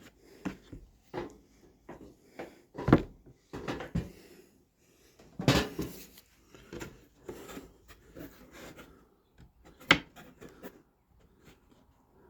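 Irregular knocks and clatter of wooden fence-picket boards being handled and set in place on a workbench, with a few sharper, louder knocks about 3, 5.5 and 10 seconds in.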